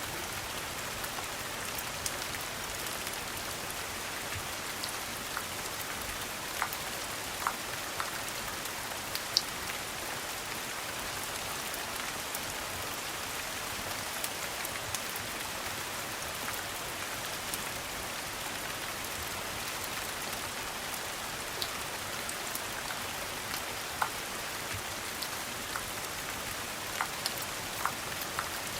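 Steady rain falling, an even hiss with scattered sharp clicks and pops.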